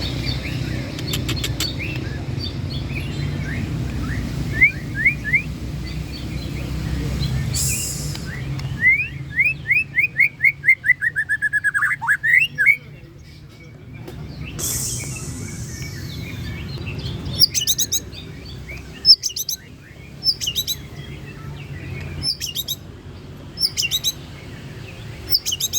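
White-rumped shama (murai batu) singing a varied, mimicking song: short repeated chirps, a fast run of rising notes that steps down in pitch about ten seconds in, then high sharp phrases repeated at intervals. A steady low rumble runs underneath.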